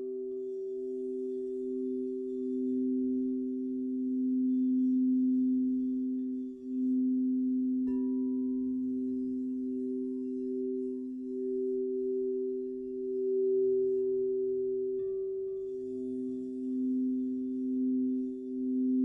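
Crystal singing bowls ringing: two low sustained tones held together with a slow pulsing swell. A fresh strike about eight seconds in and another about fifteen seconds in add higher, fading ringing tones.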